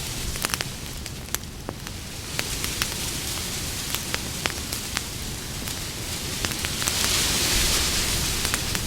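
Campfire crackling, with frequent sharp pops over a steady hiss of burning wood; the hiss swells louder about seven seconds in.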